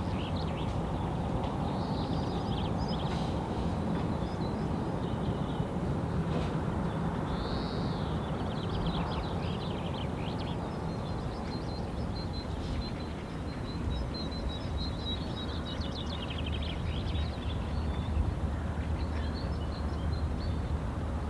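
Wild birds chirping and calling, with a high trill in the middle, over a steady low rumble.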